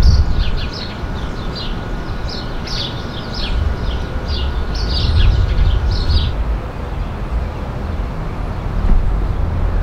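Songbirds chirping in a quick run of short, falling chirps that stops about six seconds in, over a steady low rumble.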